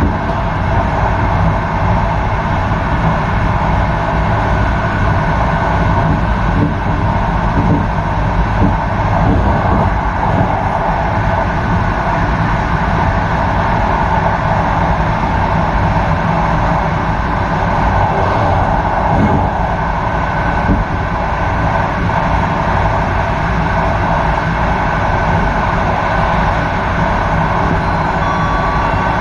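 Intercity passenger train running at speed, heard from inside its rear end: a steady rumble of wheels on rails with a faint thin whine over it.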